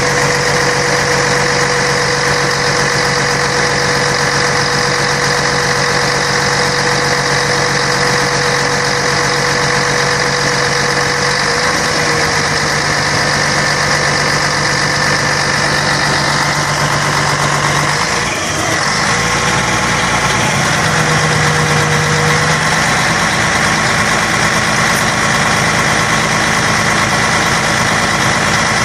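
Scania K113 bus's six-cylinder diesel engine running steadily at a low, even speed. The engine note shifts a little partway through, with a brief break and dip about two-thirds of the way in.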